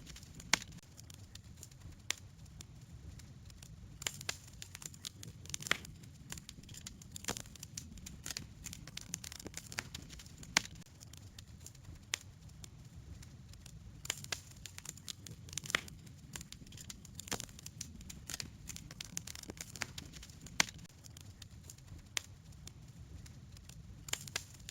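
Wood campfire crackling, with irregular sharp pops over a low steady rumble of the flames.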